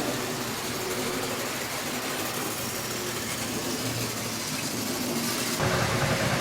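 00 gauge model trains running on a layout: a steady whirring hum with faint motor whines that come and go. The sound changes abruptly and grows louder near the end.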